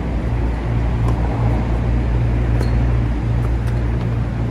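Strong wind rumbling on the microphone, with a few faint clicks over it.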